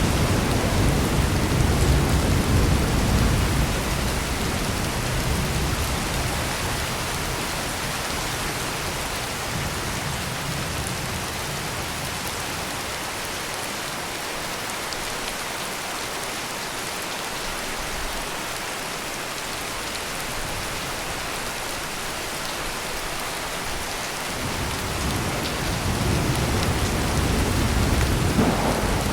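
Heavy rain falling steadily with rolling thunder: a low rumble fading away over the first few seconds, and another building up in the last few seconds.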